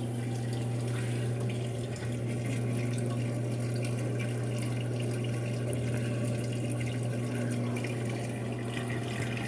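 Brastemp 5 kg washing machine's drain pump running with a steady hum while water flows out. This is the draining stage just before the spin.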